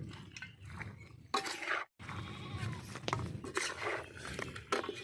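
Animal calls that bend up and down in pitch, heard twice over a low rumble. The sound cuts out for a moment about two seconds in.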